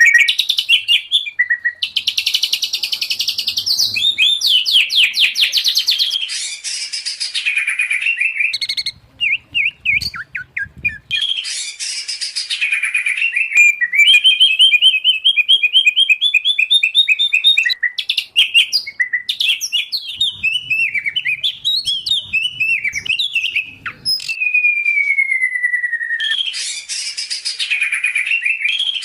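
Songbirds singing a loud, fast, varied song of whistles, trills and chattering phrases, the sections changing abruptly from one to the next. The song is mixed from white-rumped shama, oriental magpie-robin and greater green leafbird recordings.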